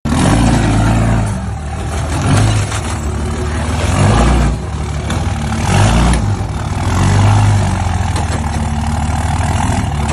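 Motor vehicle driving, with engine and road noise that swells and eases several times.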